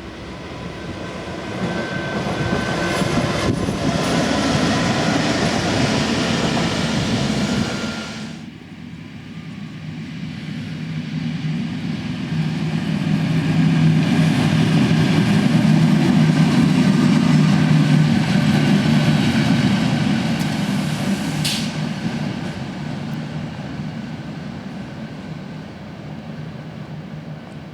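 A train running past on the tracks, its rumble and rail noise swelling up and then stopping abruptly about eight seconds in. A second, lower-humming pass then builds and fades, with a brief high squeal about three-quarters of the way through.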